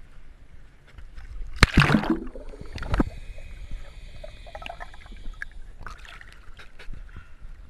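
Sea water splashing and sloshing right at the microphone as a swimmer moves through it, with a loud splash about two seconds in and a shorter one about a second later.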